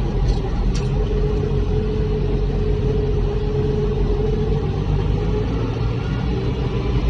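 International Harvester 3688 tractor's diesel engine running steadily, heard from inside the cab, with a steady whine through much of it and a couple of faint clicks near the start.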